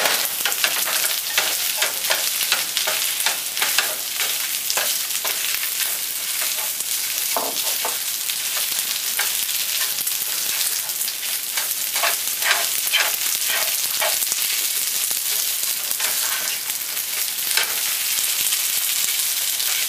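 Wide rice noodles with beef and broccoli sizzling in a hot frying pan while being stirred and tossed with a spatula: a steady frying hiss with repeated short scrapes and knocks of the spatula against the pan.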